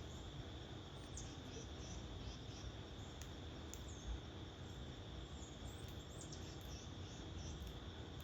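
Quiet backyard ambience: a steady high insect drone over an even hiss, with faint short bird chirps and a single soft knock about four seconds in.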